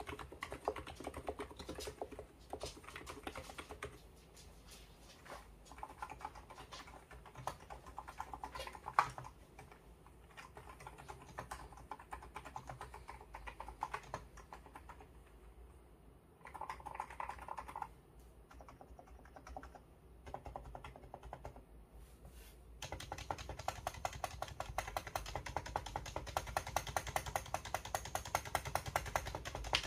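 Typing on an ABKO electrostatic capacitive (non-contact) keyboard: a scattered, uneven run of keystrokes that turns into a faster, louder, steady stream of keystrokes about two-thirds of the way in.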